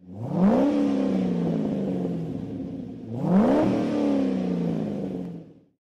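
Car engine revved twice, each rev rising quickly in pitch and then winding down slowly. The sound fades out near the end.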